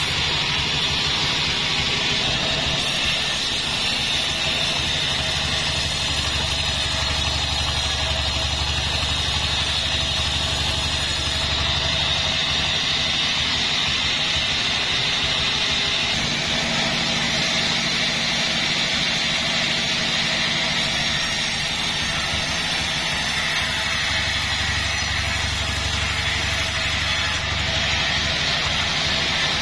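Sawmill machinery running steadily: an engine drone with a constant high whine over it, the low drone shifting slightly about halfway through.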